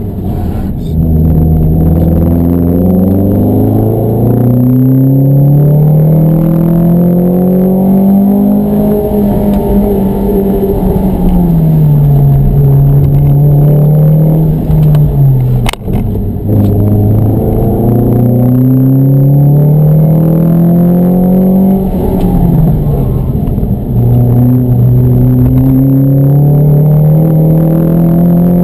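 Mountune-tuned Ford Fiesta ST's four-cylinder engine, heard from inside the cabin, pulling hard through the gears on a hill climb run. The revs climb and drop back several times. A single sharp click comes just past halfway.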